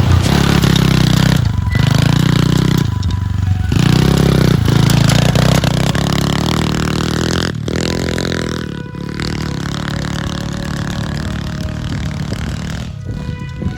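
Pit bike engine revving, its pitch rising and falling as the throttle opens and closes, with several brief drops between revs.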